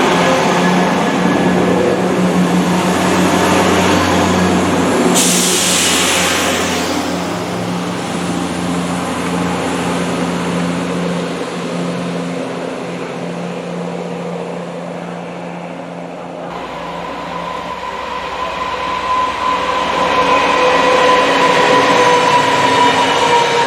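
Train running past with a steady engine hum and a brief hiss about five seconds in. After an abrupt change, another train's whine grows louder near the end as it approaches.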